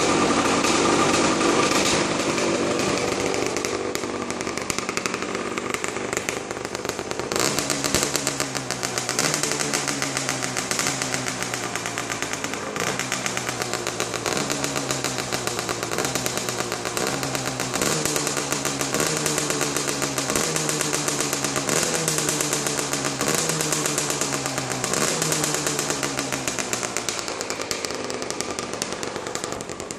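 Beta RR 50's 50 cc two-stroke engine running at a standstill, heard near its exhaust silencer. It runs steadily at first, then from about eight seconds in the throttle is blipped over and over, each blip a quick rise in pitch and fall back, about once a second, easing off near the end.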